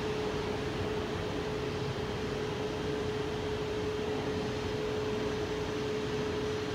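SNCB double-deck push-pull train pulling away, a steady rumble with a steady hum held over it.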